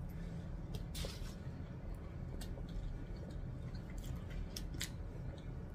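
A person chewing a mouthful of loaded fries, with a handful of short clicks and smacks scattered through. A low steady hum runs underneath.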